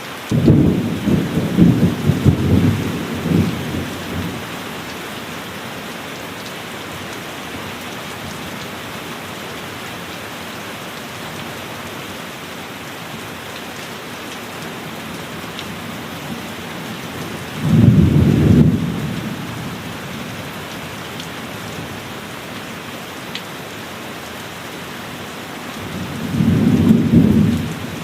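Heavy rain falling steadily through a thunderstorm, with three rolls of thunder. The first is a crackling rumble over the first four seconds, the second a shorter rumble about two-thirds of the way through, and the third comes near the end.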